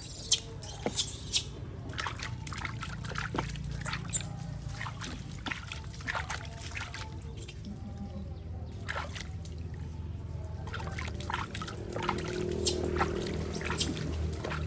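Water trickling and pouring, with scattered clicks and knocks.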